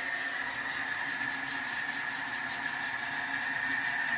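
Kitchen sink tap running steadily, cold water pouring into the ramen noodles, a continuous hiss with a faint steady high tone.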